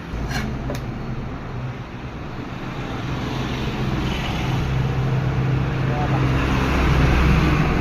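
An engine running steadily and growing louder over the last few seconds, with two short knocks under a second in.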